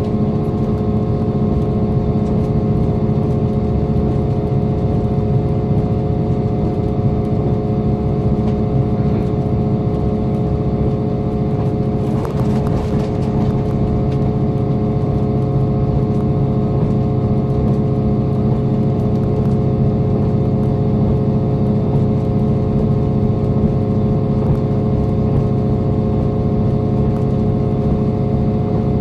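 Steady running sound of a diesel limited express train at speed, heard from inside the carriage: a constant engine drone with several steady hum tones over the rumble of wheels on rail. A short burst of hiss comes about twelve seconds in.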